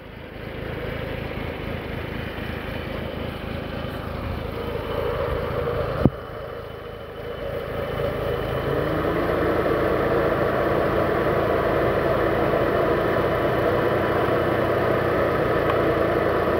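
Fiat Palio engine idling steadily on natural gas (CNG), its petrol fuel pump switched off. A sharp click about six seconds in; from about eight seconds in a louder steady whir comes in, rising in pitch and then holding, as the radiator cooling fan switches on.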